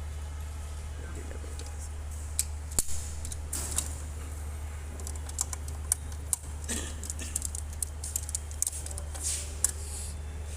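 Irregular metallic clicks and clinks of hand wrenches and sockets on engine bolts during a teardown, over a steady low hum.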